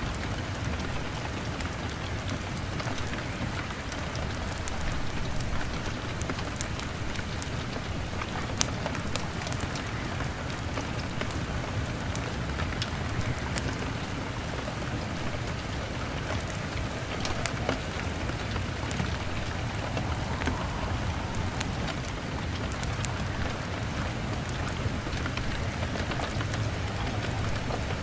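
Steady rain pattering on a window with a crackling fire: a continuous hiss of rain dotted with scattered sharp ticks and pops.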